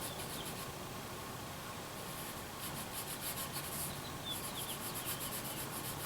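Pencil scratching on paper in quick back-and-forth strokes, coming in a few short runs with pauses between.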